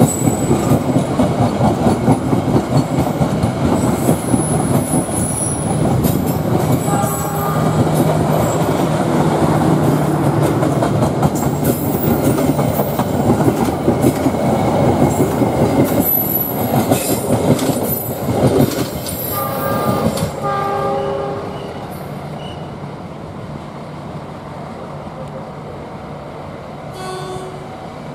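Train passing close by, its wheels clattering and rumbling on the rails, with short horn sounds in the middle; the passing noise drops off after about 20 seconds, leaving a quieter rumble.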